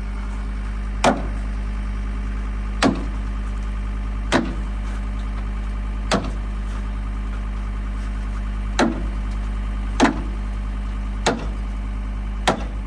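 Eight hard hammer blows on metal, about one every second and a half, each with a short ring, beating at a stuck part to knock it loose. An engine idles steadily underneath.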